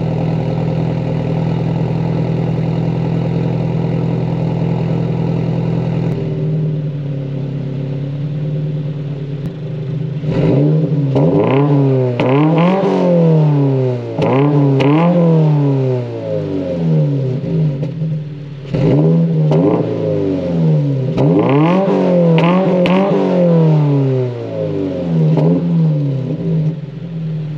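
2022 Subaru BRZ's 2.4-litre flat-four running through a Corsa cat-back exhaust just after a cold start. It holds a steady fast idle that drops to a lower idle about six seconds in. From about ten seconds in it is revved in two sets of quick throttle blips, each a short rise and fall in pitch.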